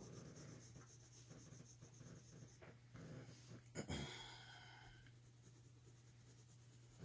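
Faint scratching of a coloured pencil on paper over a low steady hum. About four seconds in there is a sharp click, followed by a short ringing that fades within a second.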